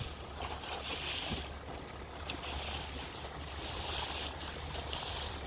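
Motorboat under way: a steady low engine drone, with wind buffeting the microphone in hissing surges about once a second.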